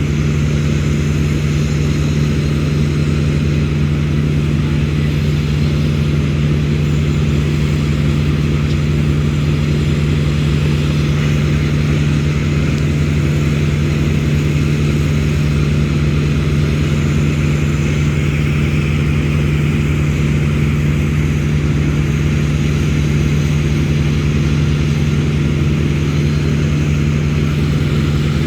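An engine running at a constant speed, a steady hum that does not change.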